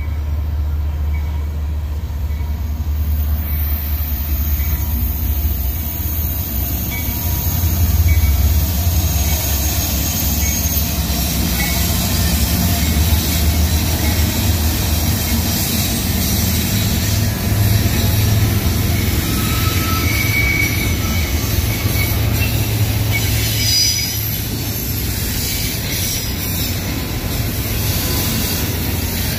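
Union Pacific freight train passing close by: the diesel locomotives' steady low rumble, then intermodal container well cars rolling by on the rails, with brief high wheel squeals now and then.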